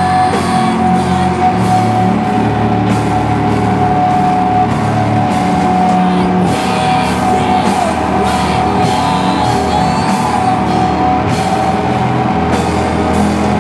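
Slowcore / noise rock band playing live at full volume: distorted guitars and a drum kit, with one long high tone held over the top.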